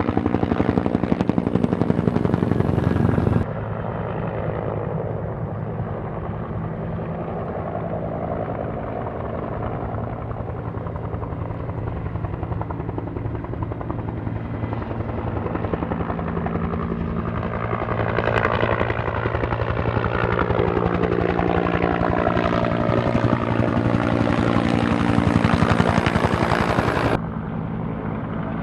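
Helicopter running overhead with a steady rotor chop. About eighteen seconds in it comes by close, and its pitch slides down as it passes. The sound cuts abruptly twice, near the start and near the end.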